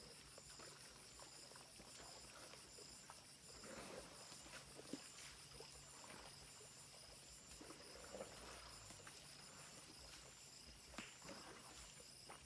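Faint, steady night-insect chorus of crickets: one high chirp repeating in short even pulses over a finer, faster trill. Scattered soft knocks and rustles sit underneath.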